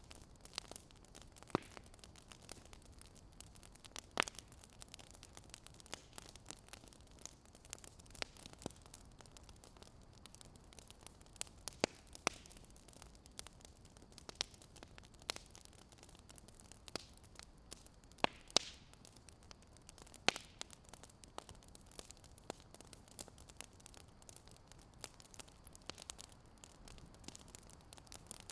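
Wood fire crackling: irregular sharp pops and snaps, a few louder than the rest, over a steady low hiss.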